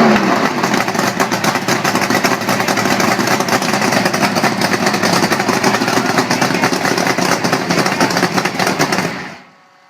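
Two-stroke V8 motorcycle engine dropping back from a rev and running at idle, a dense stream of rapid firing pulses. The sound cuts off suddenly about nine seconds in.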